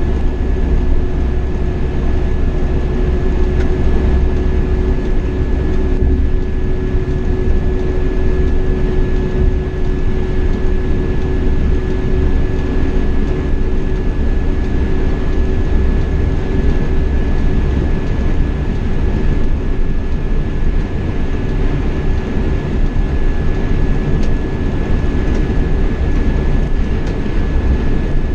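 Marcopolo Paradiso 1800 DD double-decker coach on a Scania K420 chassis cruising at road speed, heard from the driver's seat: a steady low rumble of engine and tyres, with a faint constant high whine.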